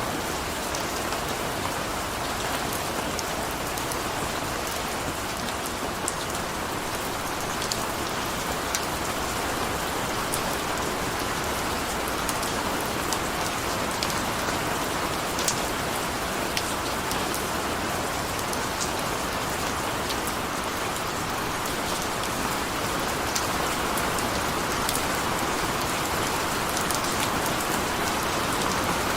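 Steady rain falling and pattering on a surface, a continuous hiss with scattered sharp drips.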